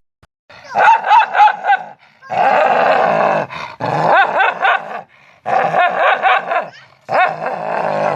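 A dog barking in high-pitched barks and yelps with quick swoops in pitch, in five rapid bursts broken by short pauses.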